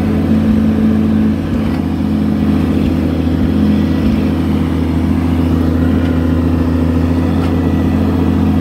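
Oliver 770 tractor's six-cylinder engine running at a steady, even speed.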